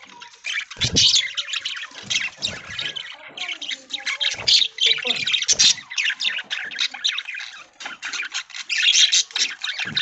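A flock of budgies (budgerigars) chattering and squawking, a dense stream of many short overlapping calls, with a few soft knocks among them.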